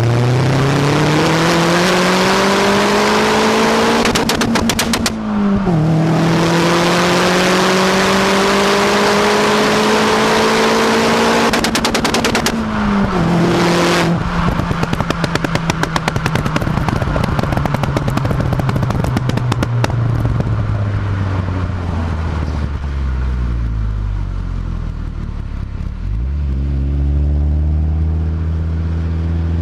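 Astra GSI's turbocharged 2.0 four-cylinder engine (Z20LET) through a decat Milltek exhaust, revving up twice with the pitch climbing over several seconds. Each time, on lift-off, the exhaust breaks into rapid machine-gun-like pops and bangs from the pop-and-bang map. Then a long run of crackles as the revs fall back to a low idle, and a short rise in revs near the end.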